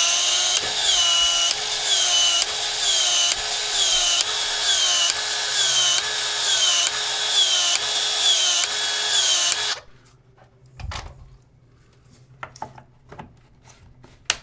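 A battery PEX-A expansion tool running, its motor whining in a steady repeating cycle of about three strokes every two seconds, each stroke falling in pitch as the head expands the pipe. It stops abruptly about ten seconds in, leaving light clicks of handling.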